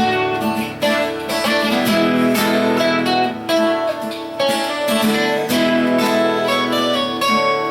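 Acoustic guitar playing an instrumental passage of strummed chords and picked notes, with no singing.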